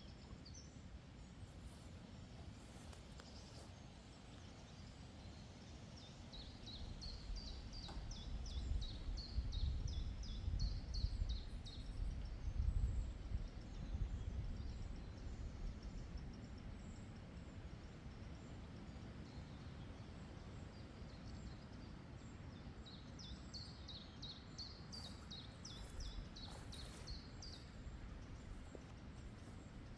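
A songbird sings twice, each time a rapid run of high notes lasting about four seconds, over quiet meadow ambience. A low rumble swells up for several seconds in the middle.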